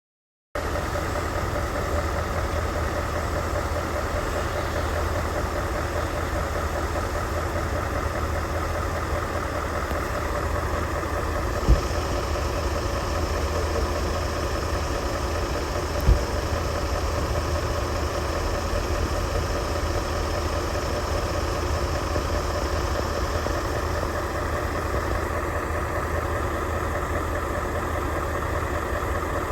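Scania R 590's 16-litre V8 diesel idling steadily, with two sharp clicks about 12 and 16 seconds in.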